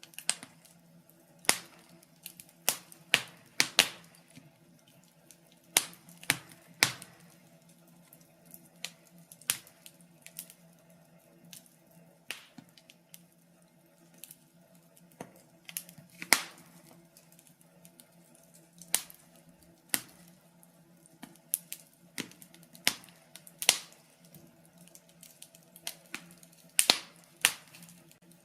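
Wood fire crackling in a fireplace: sharp pops and snaps at irregular intervals, sometimes in quick clusters of two or three, over a faint steady low hum.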